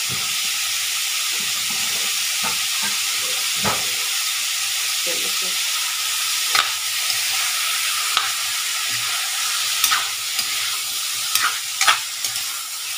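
Pork pieces with onion and garlic sizzling in a wok, with a spatula scraping and clicking against the pan as they are stirred. The clicks come more often near the end.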